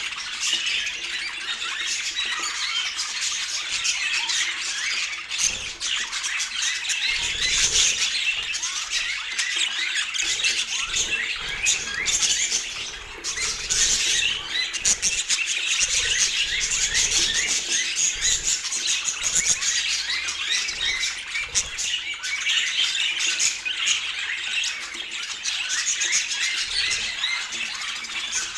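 Budgerigars chattering without a break, many short chirps and warbles overlapping.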